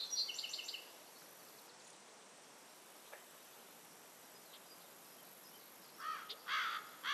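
Birds calling: a quick run of high chirping notes at the start, then a hush, then a series of repeated calls beginning about six seconds in.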